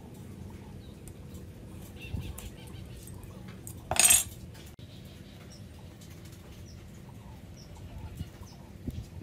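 Hand woodworking in a workshop: low, uneven working noise, then one short, sharp metallic clatter about four seconds in, as of a tool knocked or set down.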